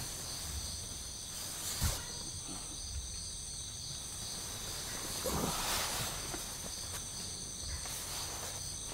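Night-time chorus of crickets and other insects, a steady high-pitched chirring throughout, with a single soft knock about two seconds in and a brief rustle a little past the middle.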